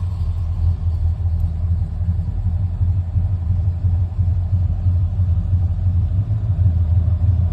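A 1986 Ford F-250's 7.5-litre 460 V8 idling steadily at about 800 RPM, with no throttle, moments after starting. It runs through a Magnaflow muffler with a deep, even rumble.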